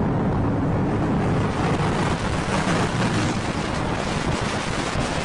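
A moving car's engine and road noise with wind buffeting the microphone, a steady loud rush that cuts off suddenly near the end.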